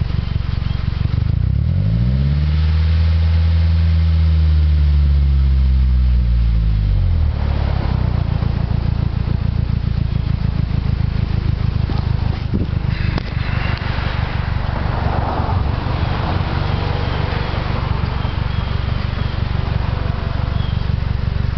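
Mazdaspeed3's turbocharged 2.3-litre four-cylinder running, revved up about two seconds in, held for a few seconds, then dropping back to idle. Its turbo is failing and the car is blowing blue smoke.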